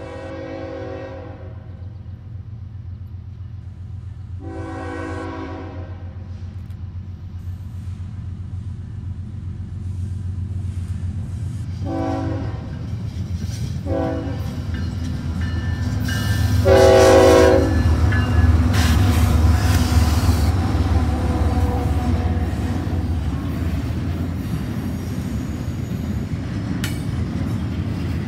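Diesel freight locomotive sounding its multi-chime air horn in five blasts: two long, two short and a final, loudest long one as it draws level. Beneath the horn is a low engine rumble that swells as the locomotive passes, then the steady rolling rumble of double-stack container cars going by.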